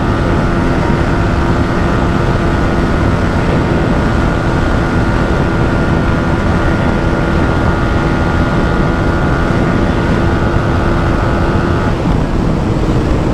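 Yamaha MT-15's 155 cc single-cylinder engine held at full throttle in sixth gear near its top speed of about 135 km/h, a steady high engine note under heavy wind rush. About twelve seconds in the engine note falls slightly.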